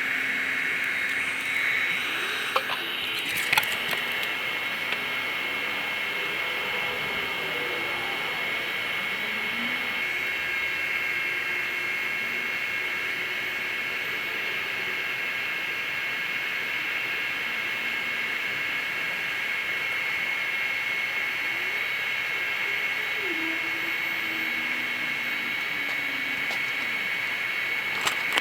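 Electric air blower feeding a charcoal-briquette paint-can furnace, running steadily with a rush of air and a high whine. A couple of sharp clicks come about three seconds in.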